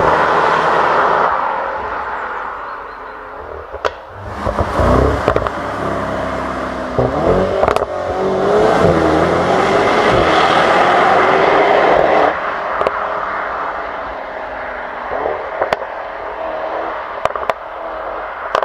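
Mercedes-AMG GT 63 S's twin-turbocharged 4.0-litre V8 accelerating hard away, its pitch climbing and dropping back at each upshift, with a few sharp cracks from the exhaust. The sound is loudest in the middle and fades as the car pulls away over the last few seconds.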